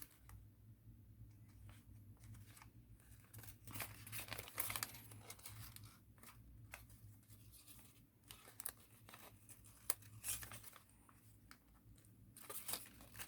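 Sheet of thin origami paper being folded and creased by hand: faint, irregular rustles and crinkles as the paper is lifted, pressed and shaped.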